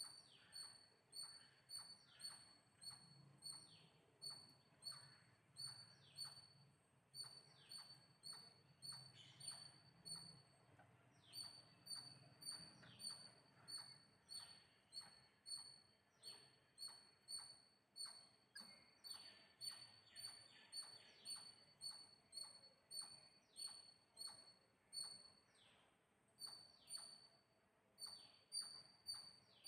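A small bird chirping over and over, faint short high chirps at a steady pace of about two a second.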